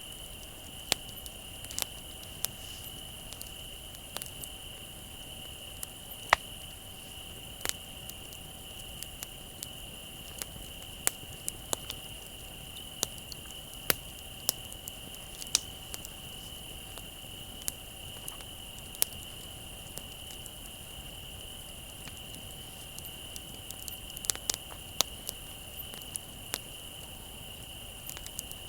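Crickets trilling steadily on one high pitch, over the irregular crackling and popping of a wood bonfire, sharp single snaps every second or so with a quick flurry of pops near the end.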